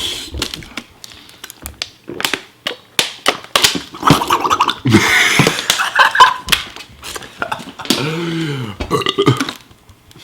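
Eating noises from a man working through a bowl of noodles: clicks and short noisy bursts, likely utensils against the bowl and mouth sounds. About eight seconds in, a single burp rises and falls in pitch.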